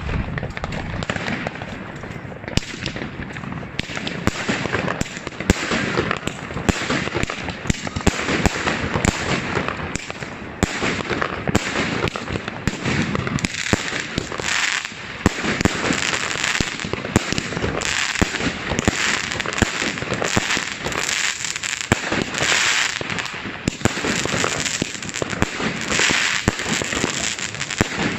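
Many fireworks and firecrackers going off at once: a dense, continuous crackle of bangs and pops with louder single reports scattered throughout.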